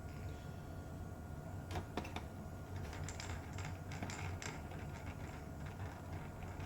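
Scattered faint clicks and taps of small screws and laptop parts being handled as the laptop is screwed back together, over a steady low hum.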